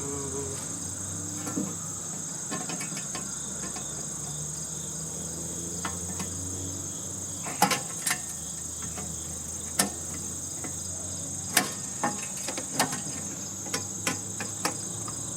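A steady, high-pitched drone of insects runs throughout, like crickets. About ten sharp metallic clicks and knocks come in the second half, from hand tools working on the air-conditioning unit's casing and fasteners.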